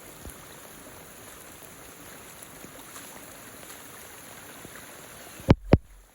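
Steady rushing noise, like running water, then two sharp knocks a quarter-second apart near the end.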